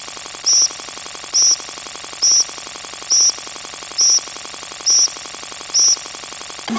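Electronic sound effect: a harsh, dense buzzing drone with a short high beep repeating evenly about once every 0.9 seconds, seven times, cutting off suddenly at the end.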